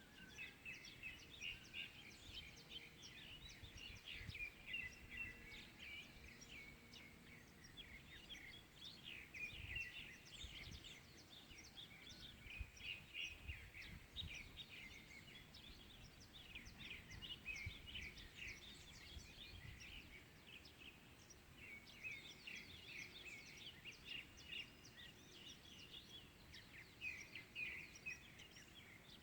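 Faint morning chorus of many small songbirds, chirping and twittering continuously in dense, overlapping short calls, with a faint low rumble underneath.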